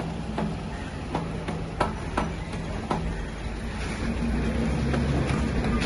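Bajaj diesel generator engine being hand-cranked, with a sharp knock about every third of a second. About four seconds in, it turns into a louder, steadier running drone as the engine picks up.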